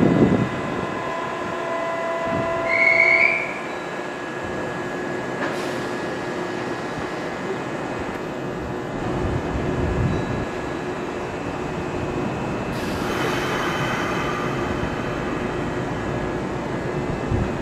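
Kintetsu 22600 series electric train rolling slowly over the station tracks, its wheels squealing in high tones about three seconds in and again about thirteen seconds in, over a steady rumble.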